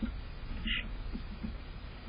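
A single short bird chirp about two-thirds of a second in, over a steady low rumble of outdoor background noise.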